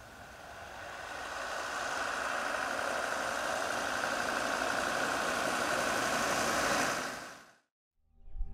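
Car engine running steadily, swelling over the first two seconds and then fading out quickly about seven and a half seconds in, followed by a brief silence.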